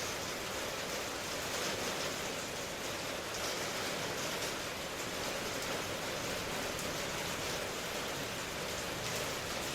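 Steady, even rain, with faint patter of drops in the upper range over a constant hiss.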